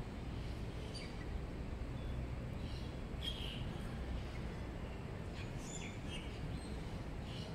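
Birds chirping now and then, short high calls every second or two, over a steady low background rumble.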